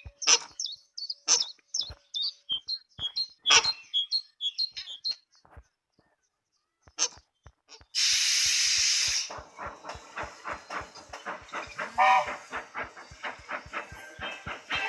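Cartoon steam-train sound effects. Short bird-like chirps and clicks come first. A loud burst of steam hiss follows about eight seconds in, then an even clicking of about four a second, like wheels on rail joints.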